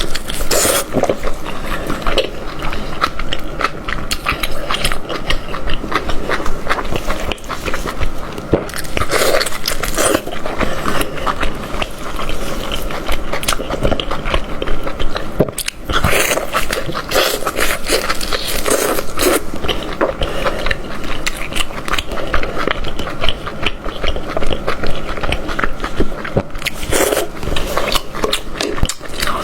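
Close-miked person biting and chewing cooked goat head meat, a dense run of small wet clicks and smacks.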